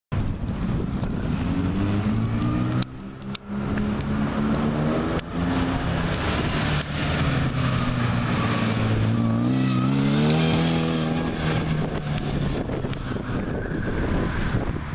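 Lotus 15 Series 3 race car engine running loud and being revved, its pitch climbing and falling several times. It drops away briefly about three seconds in and climbs to its highest about ten seconds in.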